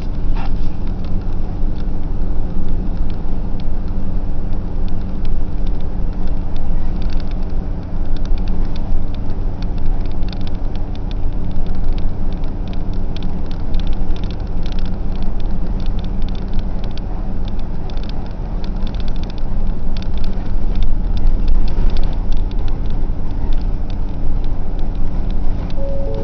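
A bus running along the road, heard as a steady low engine and road rumble with a constant hum and many small rattles throughout.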